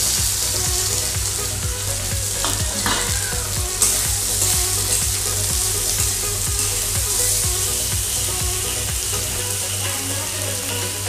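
Fried potato wedges, onion and tomato sizzling in oil in a metal kadai while a metal spatula stirs them, scraping and clicking against the pan now and then. A steady low hum runs underneath.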